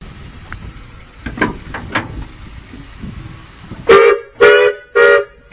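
Heisler geared steam locomotive's whistle sounding three short blasts near the end. A few sharp knocks come before them.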